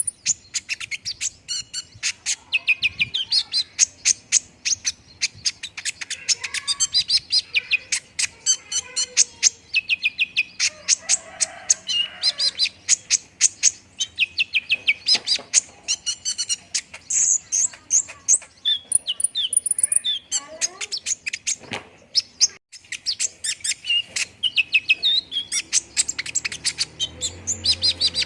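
Olive-backed sunbird (kolibri ninja) singing: long runs of rapid, high, sharp chirps and trills, repeated with only brief pauses.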